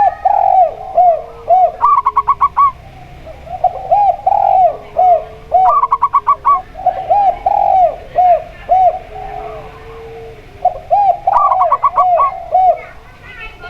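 Zebra dove and spotted dove cooing together in four phrases. Each phrase is a run of quick, repeated coo notes, some followed by a long lower note, with a fast rattling trill higher up.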